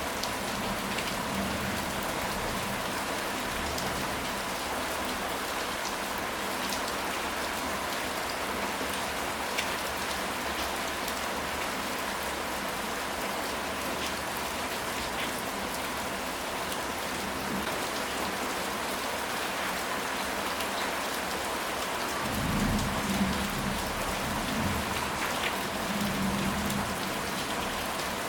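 Steady rain falling on a surface, with scattered individual drops ticking throughout. About two-thirds of the way in, a low rumble of thunder rises over the rain for several seconds, the loudest moment.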